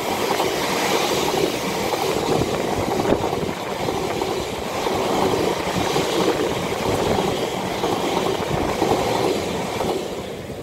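Long electric passenger train passing close below on the main line: a steady rumble and rush of wheels on the rails, with faint rhythmic clacks. It fades as the last coach goes by near the end.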